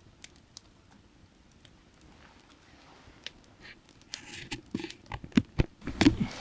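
Burning firewood crackling, with scattered light ticks at first and a burst of loud pops and cracks in the second half.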